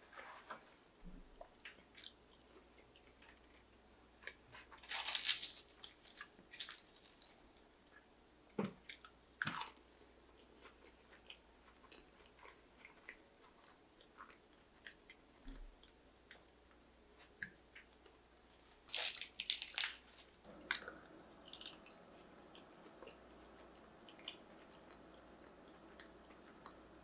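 Close-up chewing and wet mouth sounds of someone eating spinach-and-feta mac and cheese under a phyllo crust, coming in scattered short bursts with quiet between.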